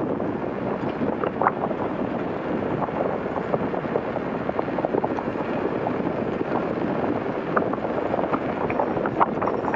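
Wind rushing over a motorcycle rider's helmet and microphone while riding, with road and engine noise underneath as a steady rush and scattered light ticks.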